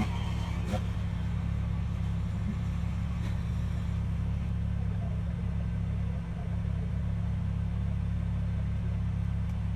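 Kubota BX23s sub-compact tractor's three-cylinder diesel engine running at a steady, even speed, with a brief slight dip about six seconds in.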